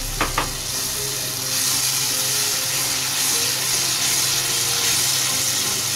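Onion-tomato masala with a little water added, sizzling and bubbling steadily in a kadhai on the gas, with two quick knocks near the start.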